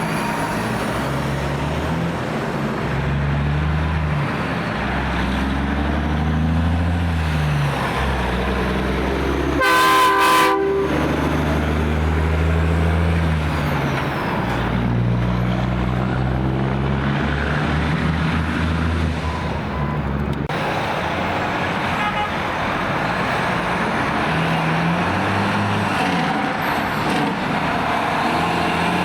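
Heavy diesel truck engines pulling away, their pitch rising and stepping repeatedly as they work through the gears. About ten seconds in comes one short, loud blast of a truck horn.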